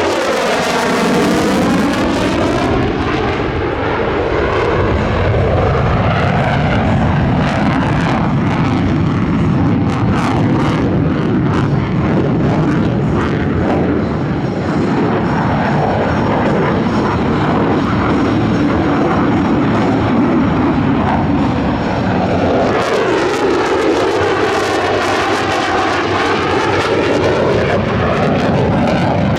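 F-35 Lightning II fighter jet flying loud low passes, its single turbofan engine noise swelling with a sweeping, phasing whoosh as it goes by, once just after the start and again about 23 seconds in.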